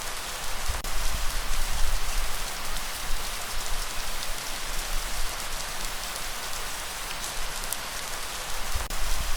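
Steady heavy rain falling in a dense, even hiss, with a low rumble underneath that swells about a second in and again near the end.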